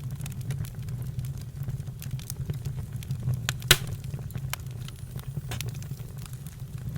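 Campfire crackling: scattered sharp snaps over a low steady rumble, with one loud pop a little past the middle.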